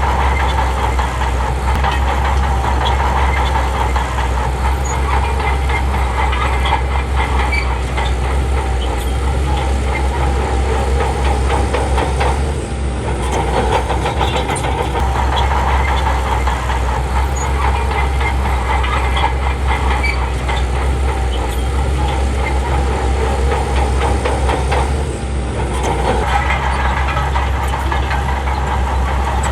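Crawler bulldozer working: its diesel engine running steadily under load with a rapid clatter of steel tracks. The sound dips briefly twice, about halfway through and near the end.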